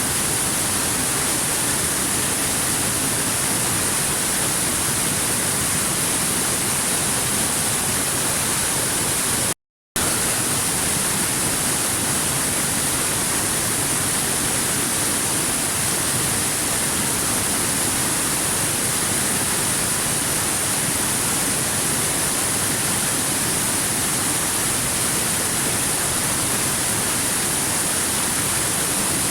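Waterfall: a steady, even rush of falling water, heaviest in the high hiss. About ten seconds in it cuts out to silence for a split second.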